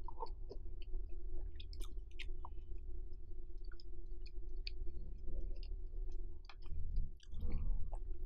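Close-miked ASMR chewing with scattered wet mouth clicks, over a steady low background hum.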